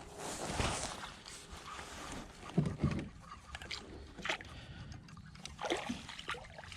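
Water sloshing and splashing around a BKC PK13 fishing kayak, with a few sharp knocks and bumps against the hull.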